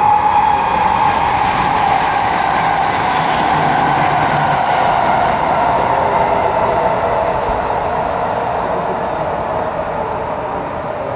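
Limited express electric train running through a station at speed and on into a tunnel: a steady rush of wheels and motors with a whine that slowly drops in pitch, easing off as the train draws away.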